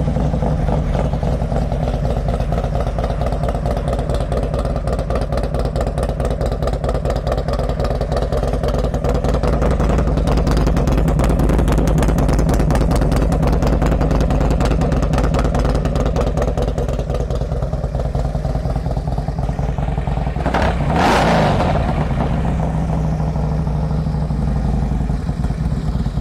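2007 Harley-Davidson Road Glide's Twin Cam 96 V-twin idling steadily just after starting, revved once briefly a little after twenty seconds in, then back to idle; it runs nicely.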